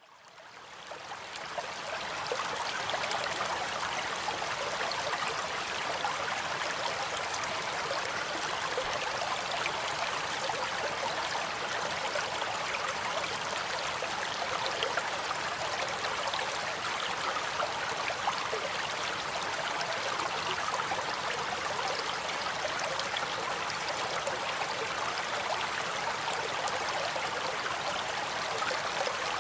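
Stream water running and burbling over stones, a steady rushing with fine splashy flickers, fading in over the first two seconds.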